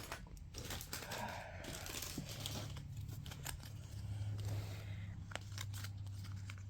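Small plastic clicks and crinkling as toy building-block pieces and their packaging are handled, over a low steady hum that starts about two seconds in.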